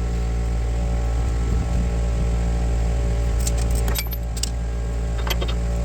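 Steady low machine hum, with short metallic clinks and rattles of hand tools being handled about three and a half seconds in and again near the end.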